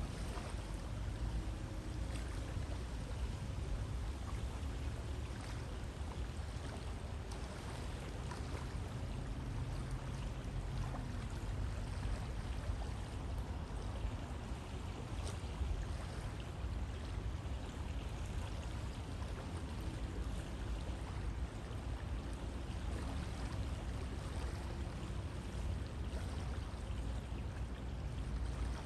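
A river flowing steadily, a continuous rush of water with a strong low rumble and fine splashes and gurgles through it.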